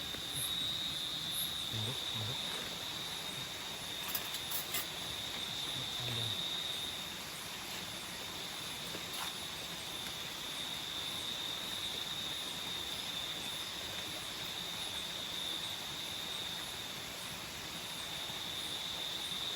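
Nocturnal tropical forest insects, crickets among them, trilling in one steady high-pitched drone, with a few faint clicks about four seconds in.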